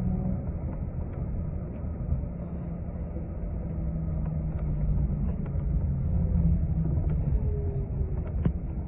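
Inside a TTC city bus under way: steady engine drone and road rumble, with a few small rattles. Near the end the engine note slides down as the bus slows.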